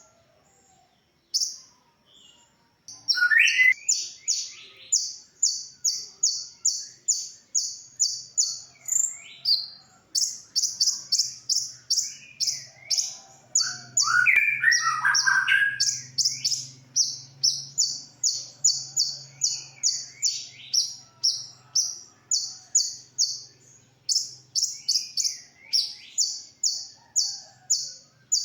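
A kolibri ninja sunbird singing: a long, fast run of short, high, thin notes, several a second, broken now and then by lower down-slurred notes. There is a louder burst of lower twittering about halfway through.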